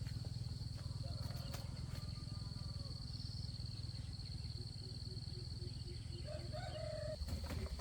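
Domestic pigeons cooing, a low steady rumbling coo, over a steady high-pitched insect drone.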